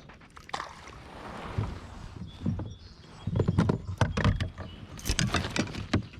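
Irregular knocks, rattles and splashes on a kayak while a hooked fish is being brought in.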